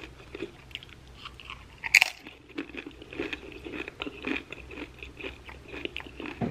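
Close-mic chewing of a tortilla chip loaded with creamy buffalo chicken dip. There is one loud, sharp crunch about two seconds in, then steady smaller crunches as the mouthful is chewed.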